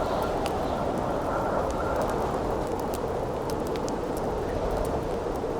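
Wind howling steadily in a low, hollow band, with a campfire crackling over it in many small, sharp pops and snaps.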